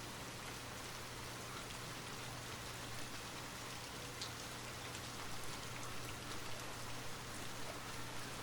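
Light rain falling steadily, a soft even hiss with scattered individual drops ticking through it, over a faint steady low hum.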